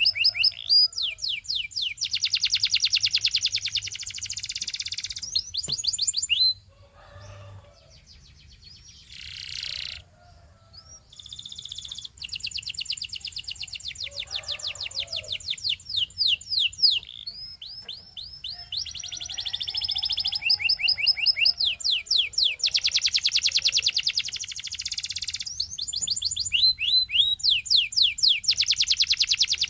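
Canary singing long, rapid trills of quickly repeated notes, broken by a pause of about five seconds early on before the trills resume.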